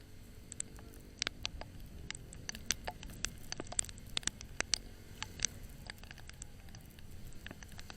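Low steady rumble of a motorcycle ride picked up by a mounted action camera, with many irregular sharp ticks and taps, several a second, beginning about half a second in.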